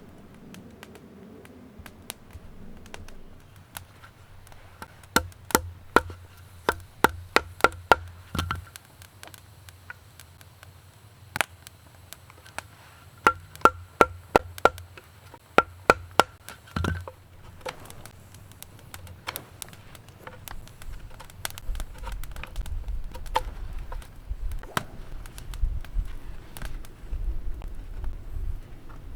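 Wood being chopped with an edged tool: two quick runs of sharp blows a few seconds apart, each strike with a faint ring. Softer, scattered knocks follow.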